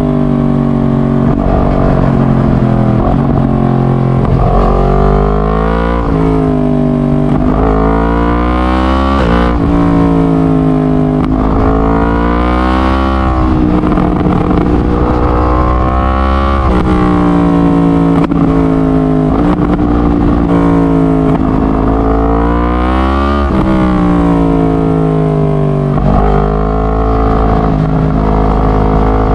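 Yamaha MT-10's crossplane inline-four (CP4) engine through a decatted straight-pipe exhaust, running loud and growling, its pitch climbing and falling again every two to three seconds as the revs rise and drop.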